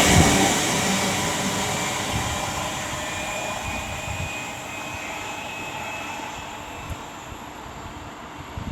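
Class 350 Desiro electric multiple unit pulling away from the platform, its running sound steadily dying away into the distance.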